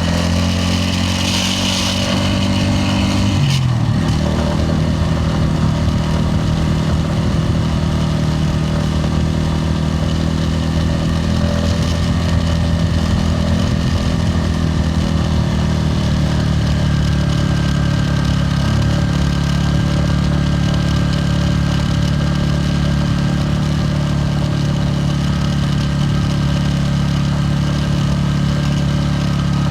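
Bajaj Pulsar N160's single-cylinder engine and exhaust running under way, heard from the rider's position. The engine note is steady, with a shift in pitch a few seconds in and another about halfway through.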